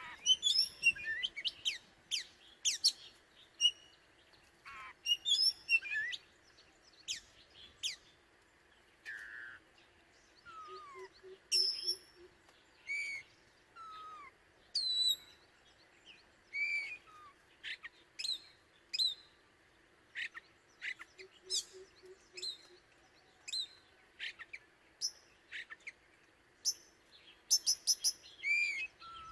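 Oriental magpie-robin singing: a varied string of whistled notes, slurred glides and sharp high chirps, phrase after phrase with short pauses. It is the song a male gives to call a mate.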